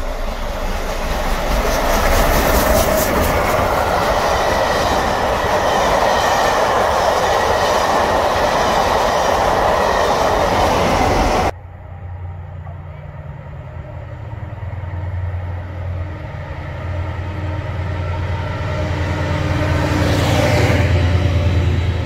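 Railway train sounds in two parts. For about eleven seconds there is a loud rushing, rattling train noise, which stops with an abrupt cut. A lower, steady engine-like rumble follows and swells toward the end, with a brief falling tone near the end.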